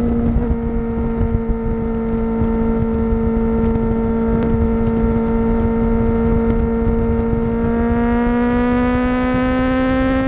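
Kawasaki H2 motorcycle engine running at a steady cruise, one even droning note whose pitch rises slowly over the last few seconds as the bike gains speed. Heavy wind rumble on the microphone underneath.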